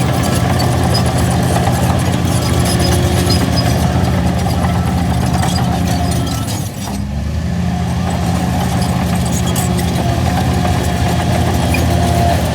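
Shantui DH17C3 bulldozer's diesel engine running steadily, with a brief drop in level a little past halfway before it picks up again.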